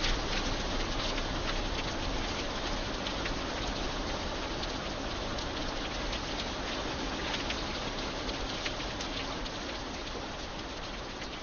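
Steady rain falling on an iron bridge, an even hiss with many individual drops ticking sharply through it.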